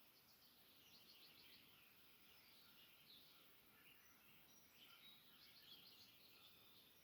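Faint birdsong: several birds chirping, with quick trilled phrases about a second in and again around five seconds, over a soft background hiss.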